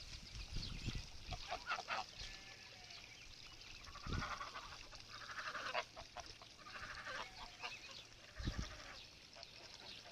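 Farm animals calling, a few calls in a row through the middle, with two low thumps, one around four seconds in and one near the end.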